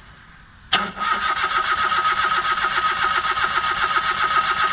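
Suzuki Alto 800's starter motor cranking the 800 cc engine. It cuts in suddenly about three-quarters of a second in and keeps a steady whine with even, fast pulses. The engine does not start because the injectors are out of the engine for a spray test.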